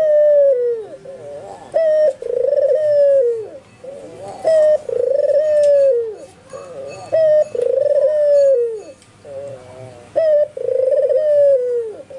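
White (albino) Barbary dove cooing: a short clipped note followed by a long drawn coo that falls in pitch at the end, the phrase repeated about five times in steady rhythm.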